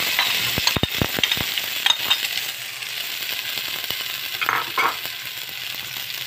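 Ground spice paste of shallots, garlic, chili and turmeric sizzling as it hits hot oil in a wok. A spoon knocks and scrapes against the bowl and pan in the first second and a half. The sizzle eases off as the paste settles.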